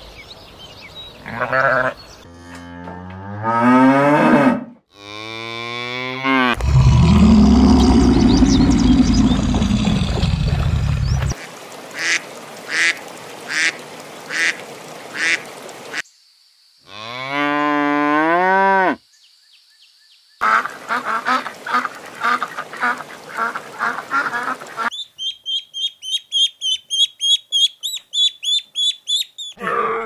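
A run of farm-animal calls: sheep bleating, then cows mooing, with one long low moo and later a clear rising-and-falling one. After that come a rapid series of short calls at several a second and, near the end, high fast chirping.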